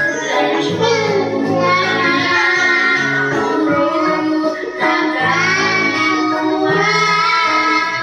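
A child singing a song over an instrumental backing, the voice's melody moving in short phrases above steady held accompaniment notes.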